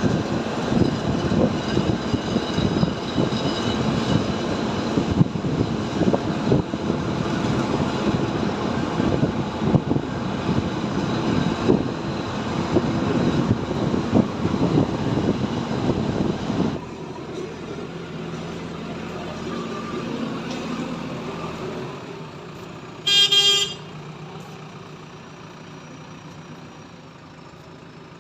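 Tractor diesel engine running loudly, then dropping suddenly to a quieter steady running sound about 17 seconds in. A short vehicle horn toot sounds about 23 seconds in.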